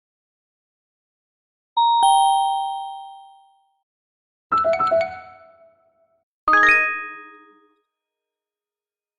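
Three separate chime-like struck notes, each ringing and fading out over a second or two, against dead silence; the last has the richest mix of tones.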